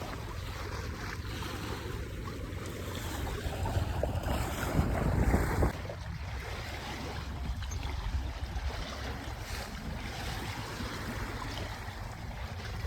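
Wind buffeting the microphone over water rushing past the hull of a sailboat moving briskly under sail, with a louder gust or surge about five seconds in.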